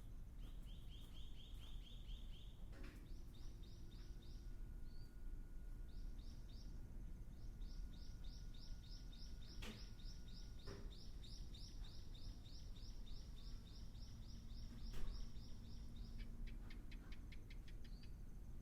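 Bird calls: long runs of short, evenly repeated high notes, about four a second, with a couple of pauses. A sharp click sounds about fifteen seconds in.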